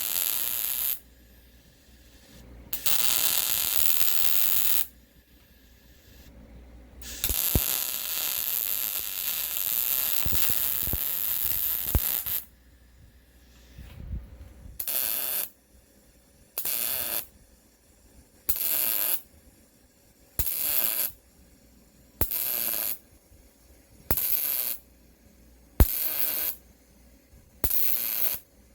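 Wire-feed welder arcing in bursts, stitch-welding a patch onto the rusted-out upper control arm mount. A few longer runs come first, then a string of short, evenly spaced bursts about every second and a half or two.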